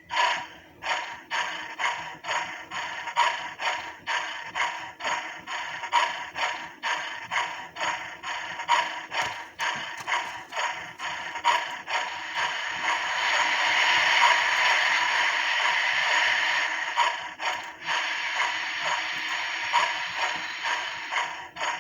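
A DCC sound decoder in a Hornby OO gauge Merchant Navy Class model steam locomotive plays steam exhaust chuffs, about two a second, through the model's small loudspeaker while the loco runs on a rolling road. Between about 12 and 17 s the chuffs blur into a steadier steam hiss before the beat comes back.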